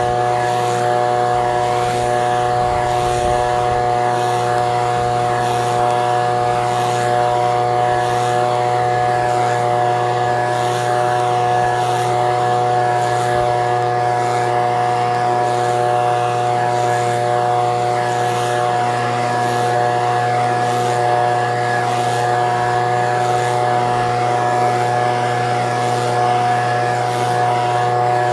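Echo PB-2620 handheld leaf blower's small two-stroke engine running steadily at one held speed, with the fan's rush of air.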